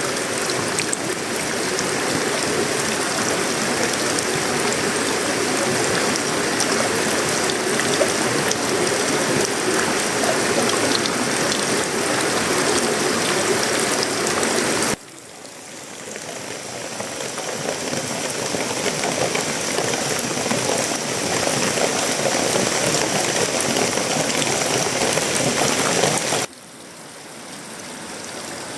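Tropical rain falling on sheet-metal roofing, wood and leaves, a dense steady hiss. About halfway through, and again near the end, the sound drops away suddenly and then swells back up over a few seconds.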